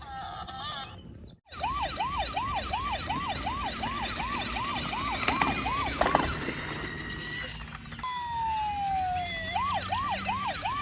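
Electronic toy police-car siren sounding in quick repeated rising-and-falling yelps, about two and a half a second. Partway through it stops briefly, gives one long falling tone, then the yelps resume.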